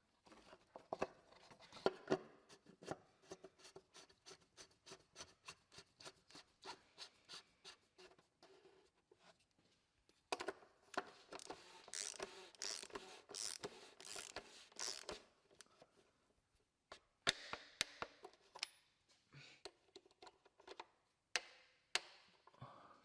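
Quick light clicks and scraping as the new oil filter element is pushed back into its plastic housing and the cap is worked back on, with a louder stretch of dense clicking about halfway through and a few sharper single clicks near the end.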